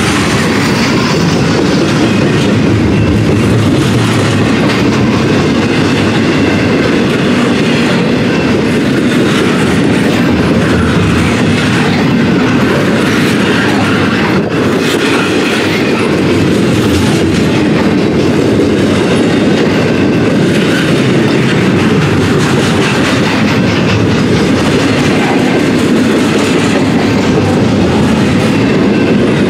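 Double-stack container train's well cars passing close by: steel wheels clattering and rumbling over the rails in a loud, steady stream.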